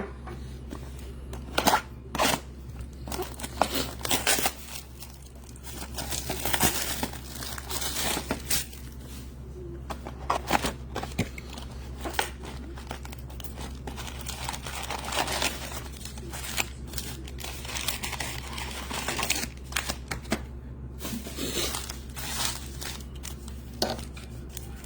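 Baseball trading-card packs and box wrapping being torn open and handled: crinkling plastic and foil wrappers and tearing, in many irregular short rustles and crackles.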